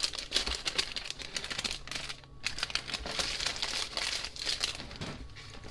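Crinkling and rustling of cookie packaging being handled, in quick irregular crackles.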